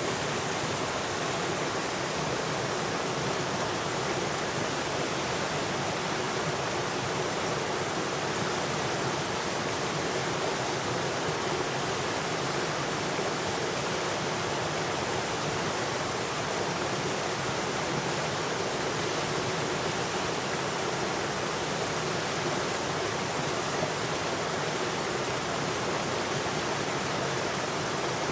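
Water flowing continuously: a steady, even rushing with no single splashes standing out.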